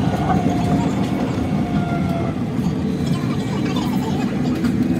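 Rubber-tyred light-rail train running along its elevated concrete guideway, heard from inside the car: a steady loud running rumble, with a thin whine that stops about two seconds in.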